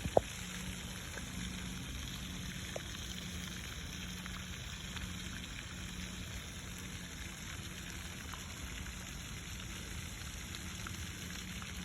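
Steady splashing of water falling in a park fountain or waterfall, with one sharp click right at the start.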